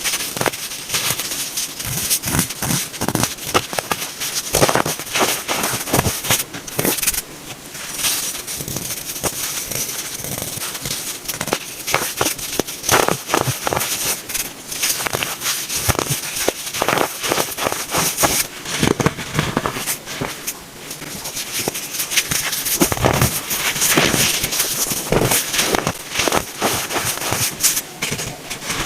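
Pressed baking soda being crushed and crunched close to the microphone: a dense run of irregular crisp crackles and squeaky crunches.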